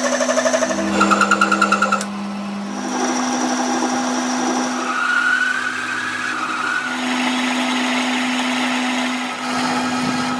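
A power tool's motor running with a steady whine, higher whining tones coming and going over it.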